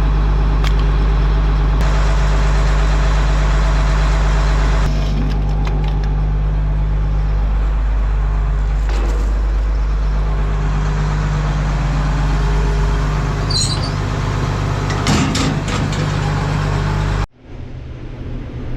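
Combine's diesel engine idling steadily, just purring. It cuts off suddenly near the end.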